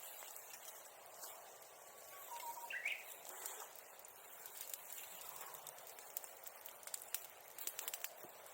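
Bonfire crackling with quick, irregular snaps and pops, thickest near the end. About two seconds in, a bird whistles a short phrase: a held note, a slightly lower one, then a quick rising flourish.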